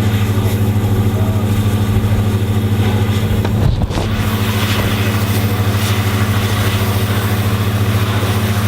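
An engine idling steadily: a loud, low hum with a fast, even throb, briefly interrupted about four seconds in.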